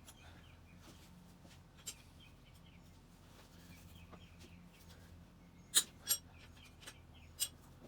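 A few sharp clicks and taps of hand tools against engine parts: one about two seconds in, a quick pair near six seconds, and another near the end. Under them is a faint steady hum.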